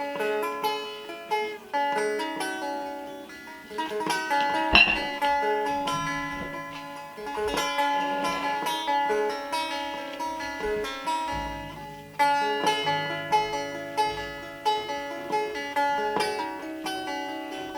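Solo bağlama (Turkish long-necked saz) played as a free improvisation, a run of plucked, ringing notes, with a single sharp knock about five seconds in.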